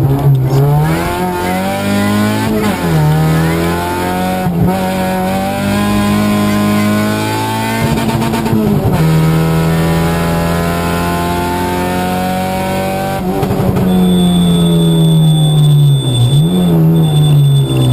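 Opel Astra GSi 16V rally car engine heard from inside the cabin, driven hard: the revs climb and drop sharply with each gear change. It holds steady high revs on the straights, with a lift-off and crackle about eight seconds in and a quick throttle blip near the end.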